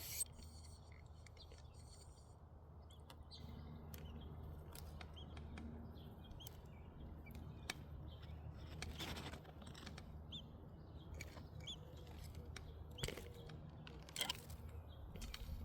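Scattered short, faint bird chirps, over a steady low rumble, with a few sharp clicks or knocks about 9 seconds in and near the end.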